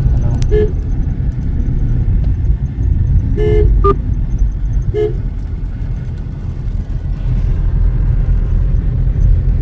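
Steady low rumble of a vehicle driving on a road, with a horn giving three short toots: about half a second in, around three and a half seconds, and near five seconds.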